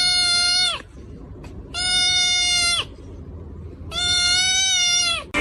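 An animal giving three long, high, steady-pitched calls about a second apart, each lasting about a second and dropping in pitch at its end.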